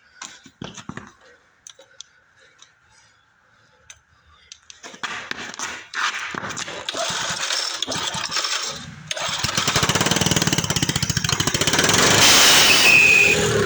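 Briggs & Stratton go-kart engine being started with the choke on: a few faint clicks, then irregular sputtering bursts from about five seconds in. It catches about nine seconds in and runs with a fast, even beat, growing louder as it revs up near the end.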